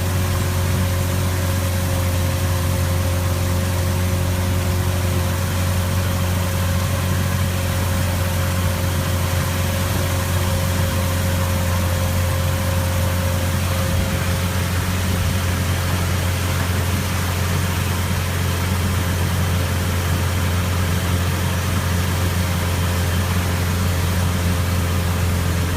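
An engine running steadily as a continuous low drone, with a faint steady higher tone above it and no change in pace.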